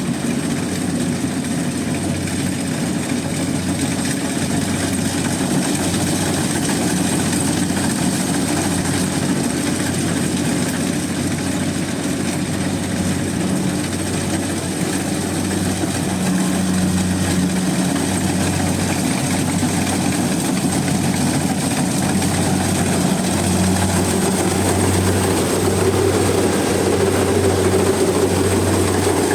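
Rice combine harvester running steadily under load, its engine hum low and constant, with a thin, steady high whine over it. It grows a little louder in the second half.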